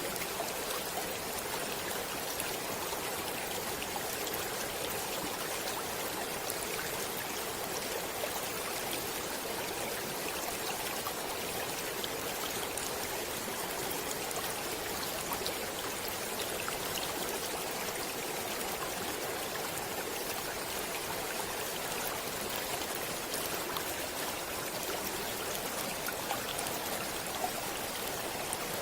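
Shallow stream flowing steadily over stones, a constant rushing babble with many small splashes and trickles.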